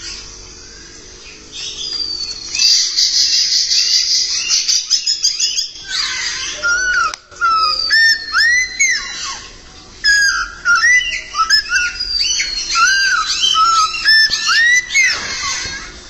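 A caged songbird sings a varied whistled song of the kind used as a 'master' to teach other songbirds. It starts quiet, breaks into a rapid trill about two seconds in, then runs on in short rising and falling notes with a few long, falling whistles.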